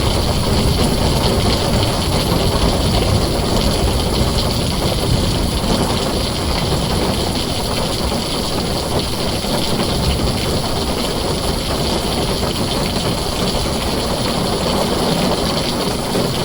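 Heavy rain falling steadily on a tin roof: a dense, even wash of noise with a deep low rumble underneath, easing slightly in loudness.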